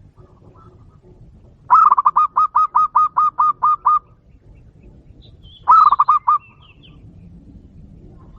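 A dove in an aviary calling: a fast run of about a dozen short repeated notes, then a second, shorter run a moment later.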